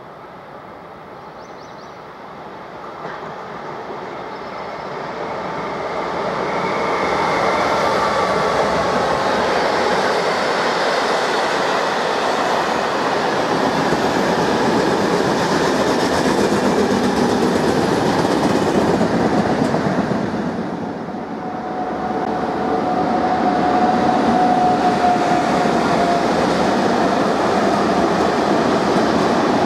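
A passenger train running through the station: a steady rush of wheels on rail that builds over the first few seconds. It eases off about 20 seconds in, and a freight train then passes with the same rolling noise, carrying a thin squeal for a few seconds.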